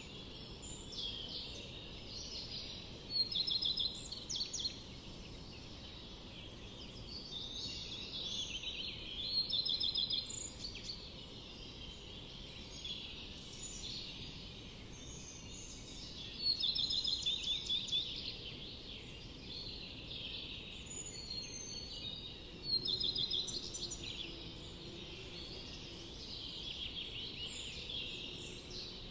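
Several songbirds singing in a forest, with overlapping calls and chirps throughout. One bird repeats a louder song with a fast trill about every six to seven seconds.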